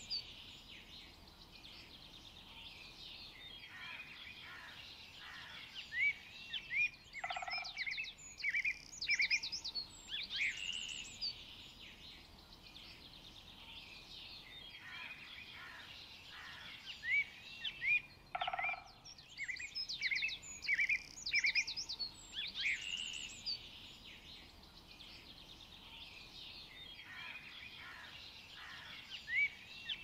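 Forest birds chirping and singing: many short, high chirps and trills in busy spells with quieter stretches between, over a faint steady background hush, and a short lower call twice.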